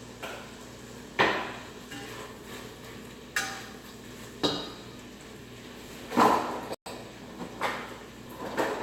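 Kitchen clatter: metal pots, pans and utensils knocking and clinking about six times, a couple of the knocks ringing briefly.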